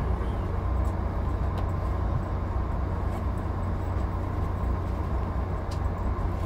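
Passenger train running at speed, heard inside the coach: a steady low rumble with a faint hum and a few light ticks.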